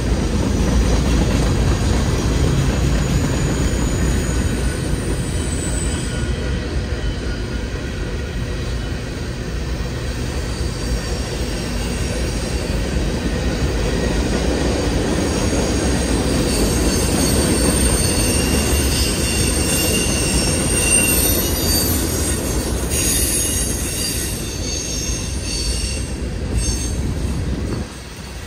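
Freight cars of a long mixed manifest train rolling past: a steady rumble of steel wheels on rail. Thin, high wheel squeal rises over the rumble through the second half.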